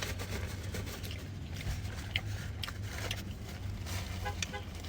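Close-up chewing and mouth sounds of a person eating, with scattered small clicks and crackles, over a steady low hum.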